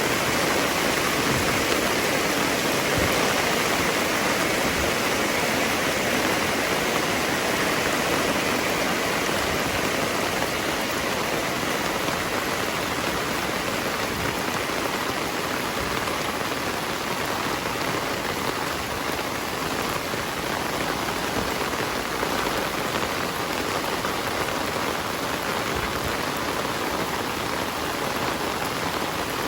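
Heavy rain falling and splashing on surfaces, a steady dense hiss, slightly louder in the first third.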